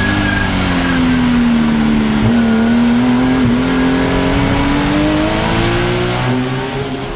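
Turbocharged car engine and exhaust under load: the engine note sags a little, then climbs steadily as the car accelerates through the revs, easing off near the end.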